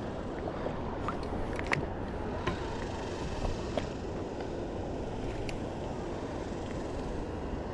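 Steady rushing noise of wind and flowing river water, with a few short sharp clicks scattered through it.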